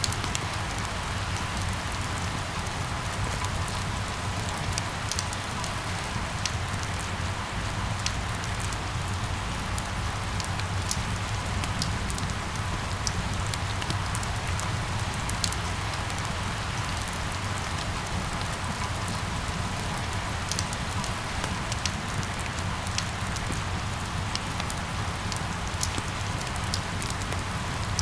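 Steady rain falling on hard surfaces, with many small drops ticking sharply over an even hiss and a low, steady rumble underneath.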